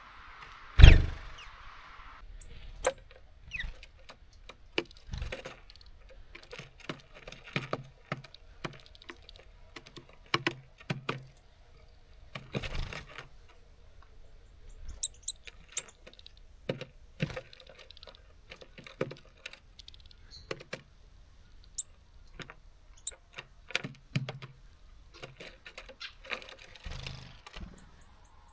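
Small songbirds pecking seeds and hopping on a bird feeder: irregular sharp taps and clicks, with one louder thump about a second in and a few faint high chirps.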